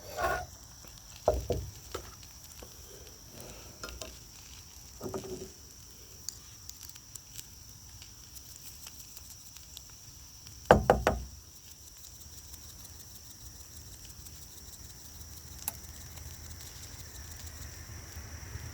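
Food sizzling faintly in a pan, with a few knocks and clatters of handling; the loudest is a double knock about eleven seconds in.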